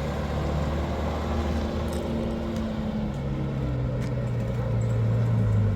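Car engine running as the car drives, a steady low hum whose pitch shifts about halfway through and gets louder near the end.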